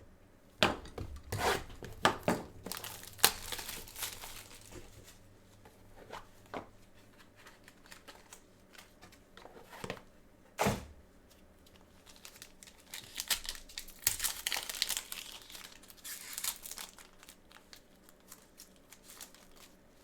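Plastic wrapping being torn off a sealed trading card box and crinkled, with scattered taps and clicks of the cardboard box and cards being handled, and one sharp snap about ten seconds in.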